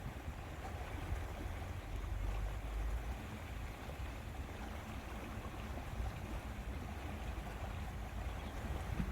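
Lakeside ambience: wind buffeting the microphone in an uneven low rumble over a steady hiss of moving lake water.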